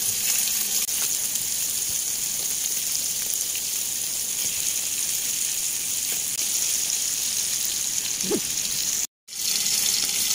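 Pork-and-beef burger patties sizzling steadily in hot oil in a frying pan. The sound cuts out for a moment near the end.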